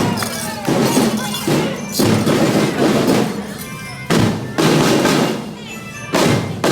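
Parade music with loud drum beats, struck at uneven spacing about every half second to second, each ringing briefly before the next.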